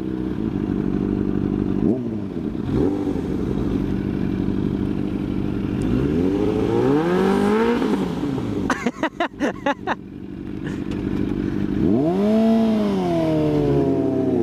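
Sport motorcycle engines idling at a stop, with the throttle blipped twice so the engine note rises and falls, about six seconds in and again near the end. A brief clatter of sharp knocks comes about nine seconds in.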